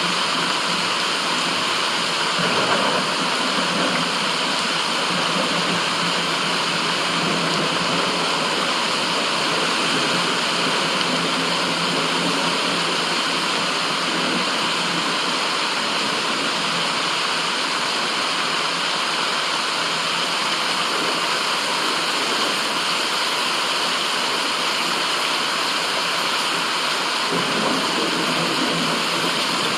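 Steady, even rushing noise of a white-noise recording, with slight swells about two and a half seconds in and near the end.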